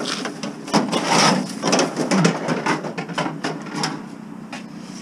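Steel sheets being handled: a run of metal clanks and rattles that dies down near the end.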